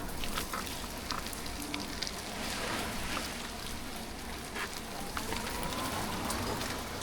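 Light rain: water drops crackling and ticking on the camera over a steady hiss from riding in the wet. A faint rising whine comes in near the end.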